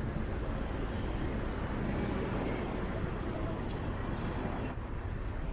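Steady city street traffic noise: the engines and tyres of passing vehicles.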